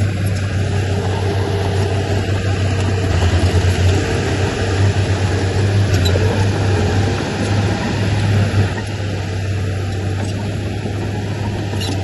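Diesel engine of heavy earthmoving machinery running with a steady low drone, a little louder in the middle.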